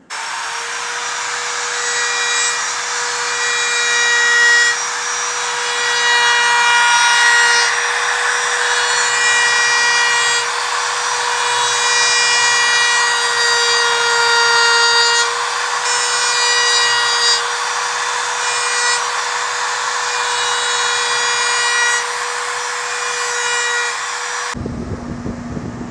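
Handheld power tool running at a steady high whine with a rasping grind, smoothing the cut edges of a hole in a motorcycle saddlebag. It stops abruptly near the end.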